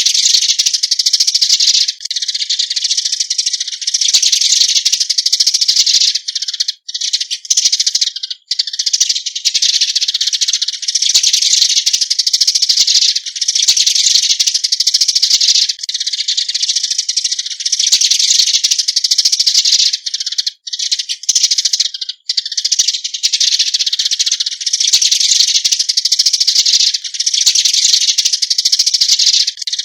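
Eurasian tree sparrow (Passer montanus) giving its flock-gathering call: a dense, high-pitched chirping chatter that comes in runs of about two seconds with brief breaks between them.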